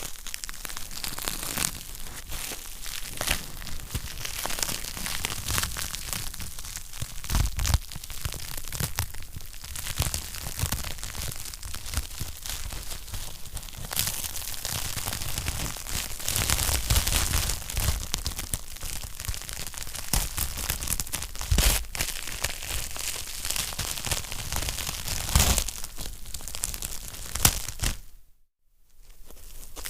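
Wood fire in a fireplace crackling steadily, with sharp louder pops every few seconds. Near the end the sound drops out for about half a second, then the crackling resumes.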